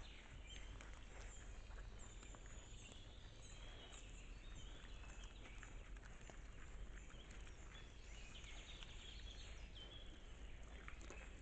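Faint forest ambience: small birds chirping with short high notes throughout, scattered soft rustles and clicks, over a steady low hum.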